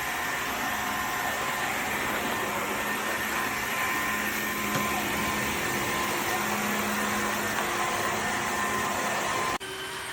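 Dreame H12S wet-and-dry vacuum running steadily, a rushing hiss of suction with a motor whine over it. About nine and a half seconds in it drops abruptly to a quieter running sound.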